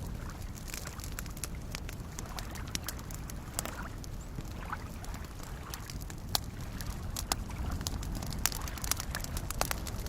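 Campfire crackling, with scattered sharp pops that come more often in the second half, over a steady low wash of small lake waves lapping at the shore.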